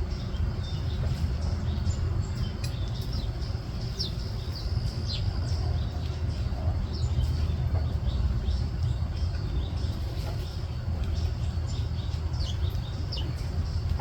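Small birds chirping: short, high calls, several sliding downward, scattered throughout, over a steady low rumble.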